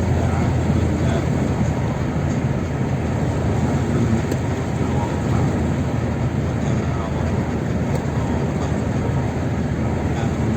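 Steady rumble of a vehicle driving along a road, heaviest in the low end and unchanging throughout.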